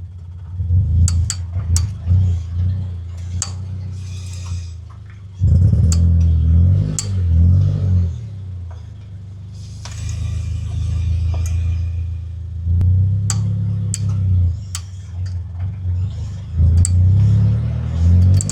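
Scion FR-S / Subaru BRZ heard while driving, its engine rising and falling in pitch with acceleration, with sharp intermittent clicks from the drivetrain. The clicks are the sign of a rear axle nut that has lost its torque, its threads corroded, letting the axle shift.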